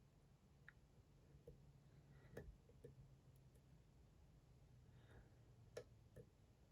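Near silence broken by a few faint, scattered clicks of a lock pick working the pins of a Dom IX Twinstar lock, aimed at its bottom interactive pin. The clearest clicks come about two and a half seconds in and near the end.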